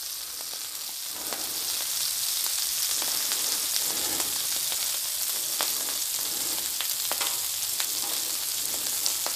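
Halved Brussels sprouts frying in bacon grease on a Blackstone steel griddle, a steady sizzle that grows a little louder after the first second or two. Scattered light clicks and scrapes come from a fork on the steel as the sprouts are turned cut side down.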